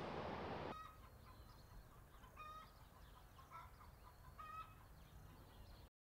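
Near silence after faint outdoor ambience cuts off under a second in, with a few faint, short bird calls about a second apart.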